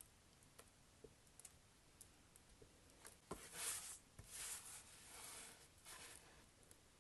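Soap packaging being unpacked by hand: scattered light clicks and taps, then, about halfway through, a few seconds of crinkly rustling of the wrapping.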